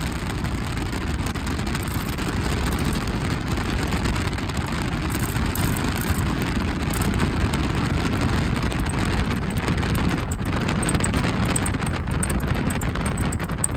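LS V8-swapped limousine driving at steady speed: a low engine and road rumble, with wind buffeting the microphone.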